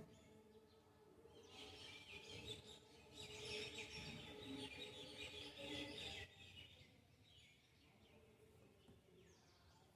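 Faint bird chirping over background noise, louder for about four seconds in the middle and cutting off abruptly a little after six seconds in.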